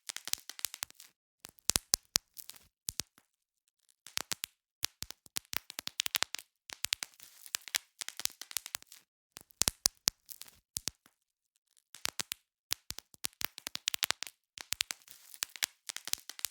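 Bubble wrap being popped: sharp irregular pops in quick clusters, with the plastic crinkling between them and short pauses between clusters.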